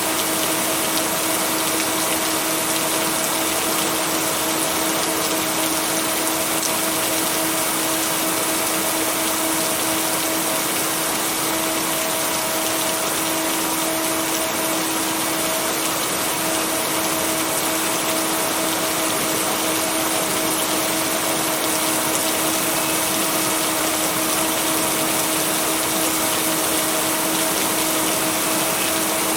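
Steady, even rain noise with no thunder, layered with a constant low hum-like tone, the binaural-beat tone blended into the rain.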